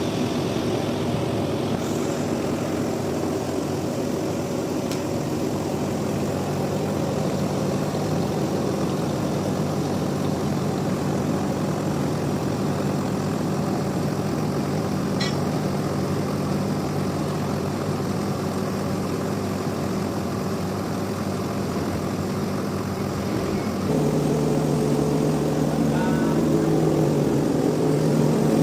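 Sawmill machinery running with a steady droning hum. Near the end it gets louder and its pitch changes.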